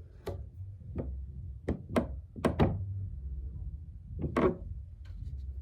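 Tarot cards and deck being handled on a table, giving a string of irregular knocks and taps, several close together about two seconds in and one more near the end.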